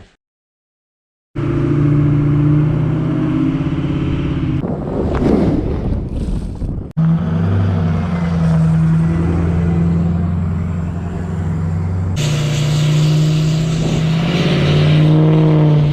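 Pickup truck engine running steadily with road noise while towing, in several clips cut together. The pitch of the drone shifts abruptly at each cut.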